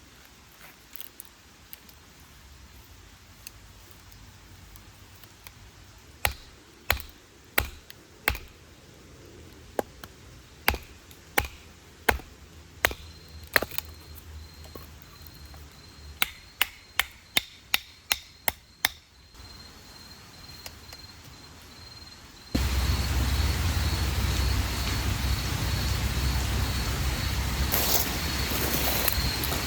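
Kitchen knife chopping on a cutting board, a run of sharp, uneven taps. Near the end it gives way abruptly to louder outdoor ambience with crickets chirping.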